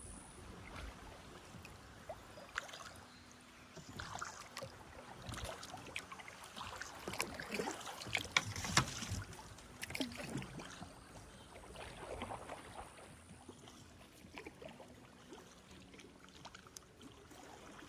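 Kayak paddling: paddle blades dipping and splashing in the water at an irregular pace, with small drips and light knocks, busiest around the middle.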